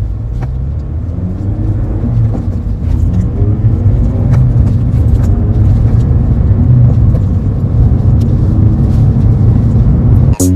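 Car being driven: a deep engine and road rumble, with the engine note rising and falling as it accelerates.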